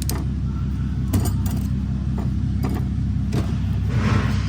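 Light metallic clinks of automatic-transmission clutch steels and friction plates knocking together as they are handled, several times, over a steady low machine hum.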